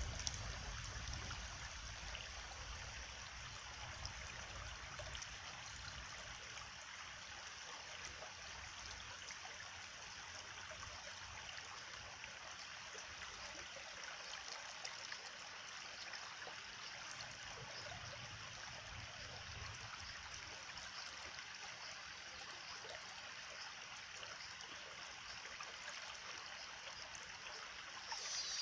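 Small stream trickling and babbling steadily over stones, with a faint low rumble underneath that fades out about two-thirds of the way through.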